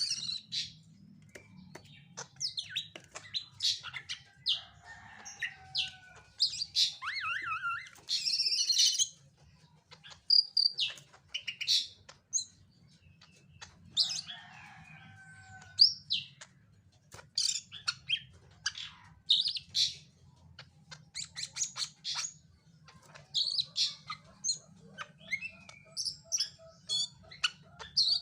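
Greater green leafbird (cucak ijo) calling and singing in a fast, restless run of short, varied chirps and whistles, broken by a few lower warbled phrases, over a faint steady low hum. This is the over-aroused ('OB') behaviour that the keeper puts down to master birds and fighting birds kept in the same house.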